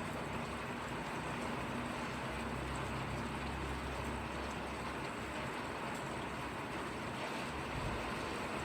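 Steady rain falling, an even continuous hiss, with a low rumble under it for a couple of seconds near the middle.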